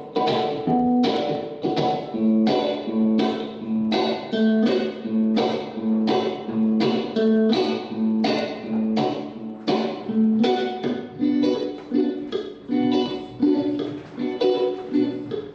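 Guitar played without voice as a song's lead-in: a steady rhythm of strummed or picked strokes, about two to three a second, over a repeated low note.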